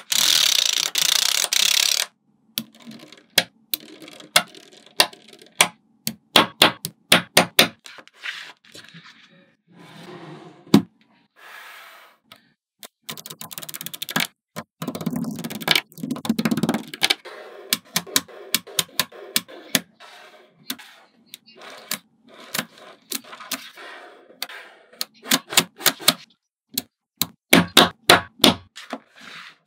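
Small neodymium magnetic balls clicking and snapping together in quick, irregular runs as pieces are built up, opening with about two seconds of loud rattling noise.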